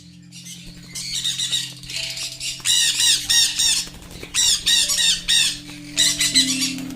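Parrots, most likely the farm's conures, squawking: harsh, rapidly repeated calls in several bursts of about a second each.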